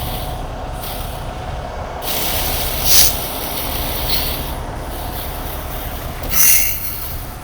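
Heavy diesel tow truck running steadily with a low rumble, with two short hisses of air, about three seconds in and near the end.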